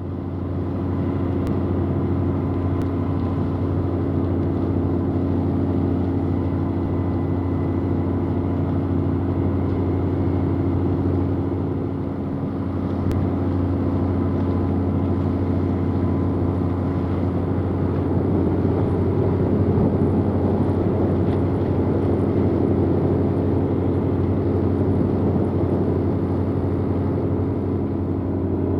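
Steady low drone of a reefer cargo ship's diesel engine and machinery, holding one even pitch with a faint higher hum above it.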